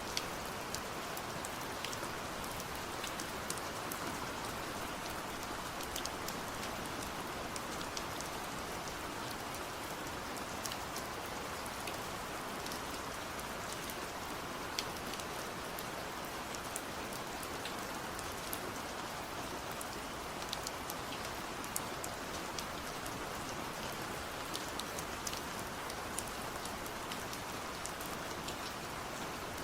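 Steady rain falling, a constant even hiss with many scattered sharp drop ticks of individual raindrops striking a surface.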